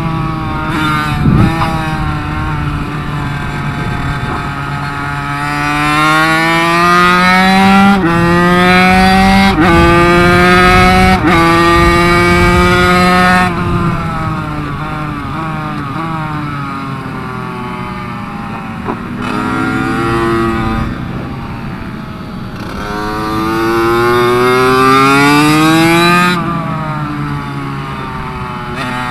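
Minibike engine heard from on board, pulling hard through the gears. The pitch drops sharply at each quick upshift, three in a row about eight to eleven seconds in. The engine then falls off as the bike slows for a corner and climbs again as it accelerates out.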